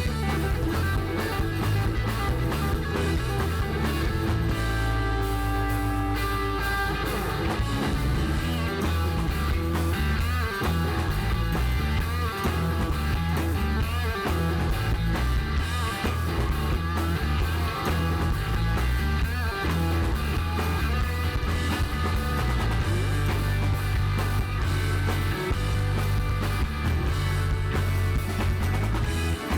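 Live rock band playing an instrumental passage: guitar over bass and drums, with a steady beat and no vocals.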